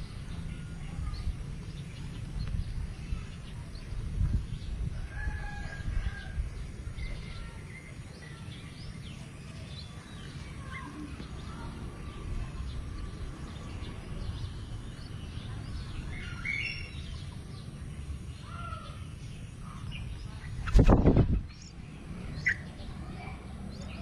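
Faint, scattered short bird chirps, likely from the yellow-vented bulbul nest with chicks being fed, over a steady low rumble. Near the end a sudden loud, low rush of noise lasts under a second, followed by one more short chirp.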